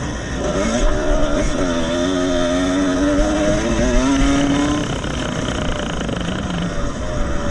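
Vintage 125 cc two-stroke motocross bikes racing. Engine pitch rises and falls repeatedly with throttle and gear changes, then the clear revving fades to a more distant engine drone about five seconds in.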